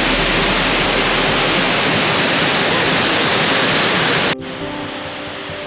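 Lower South Falls pouring, a loud steady rush of falling water. About four seconds in it cuts off abruptly and quieter background music with held notes takes over.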